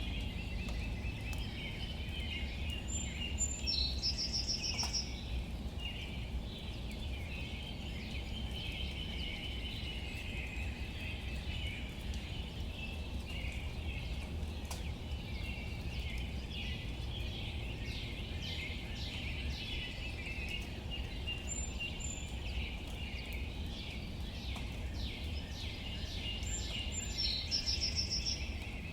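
Light rain falling on leaves, with faint drips over a steady low rumble, and birds chirping continuously throughout. A short, high trill comes twice, about four seconds in and near the end.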